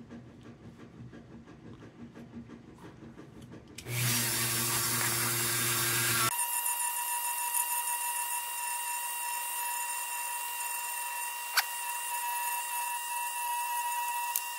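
Faint handling noises, then a small high-speed power tool starts about four seconds in and runs steadily with a high whine, used to clean up a lantern's wire bail.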